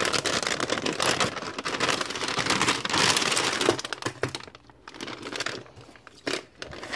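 Delivery mailer bag and packaging crinkling and rustling as they are handled, dense for the first four seconds, quieter for a couple of seconds, then another short burst near the end.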